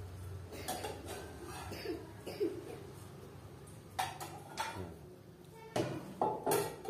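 Kitchenware being handled: a string of irregular sharp knocks and clinks, about nine in all, several bunched together in the second half.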